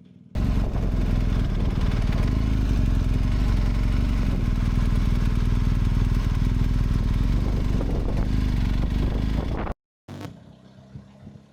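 Motorcycle on the move: a loud, steady rush of riding noise, heaviest in the low end, with the engine running underneath. It cuts in about half a second in and cuts off suddenly near the end.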